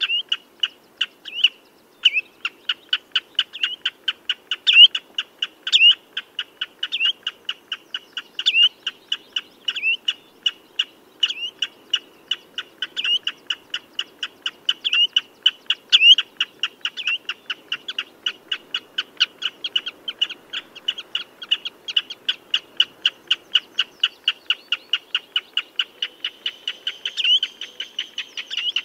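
Common redshank calling: a fast, steady run of short, high piping notes, about three a second, with a louder down-slurred note every second or two.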